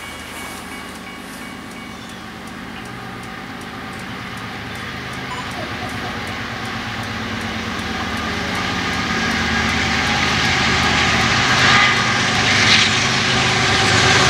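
CSX freight train's diesel locomotives approaching, their engine rumble and the noise of the train growing steadily louder as it nears.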